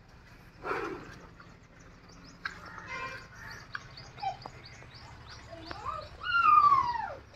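Small birds chirping in the background, with a short noisy burst about a second in. Near the end come the loudest sounds: pitched bird calls that slide downward over about a second.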